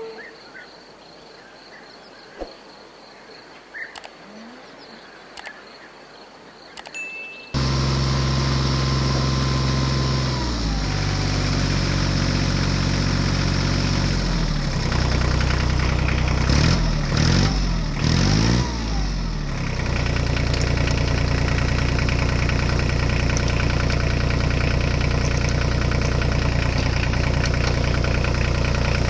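Faint insect chirping and a few clicks, then about seven seconds in a loud tractor-style diesel engine sound cuts in abruptly. It revs up and down several times, then settles into a steady, knocking idle.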